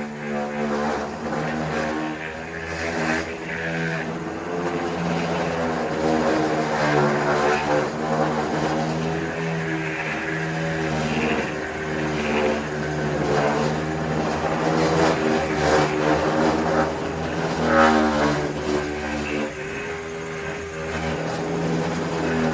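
A motor running continuously with a steady hum whose pitch dips and wavers now and then, like a power tool working.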